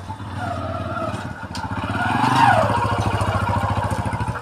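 A small vehicle engine, most like a motorcycle, running steadily as it is ridden, with a fast low pulse throughout. A brief wavering higher tone rises and falls a little past the middle.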